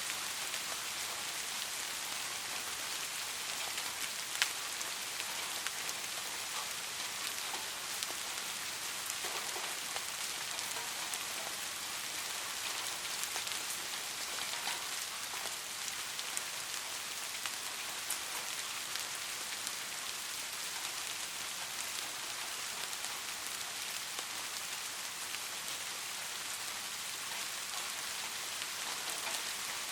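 Steady light rain falling on a surface, an even hiss with scattered individual drop ticks, one sharper drop about four seconds in.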